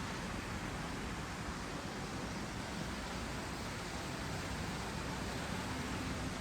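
Steady outdoor city ambience: an even hiss and rumble with no distinct events standing out.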